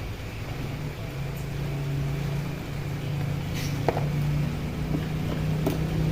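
A vehicle engine's steady low hum, growing louder toward the end, with a few faint clicks.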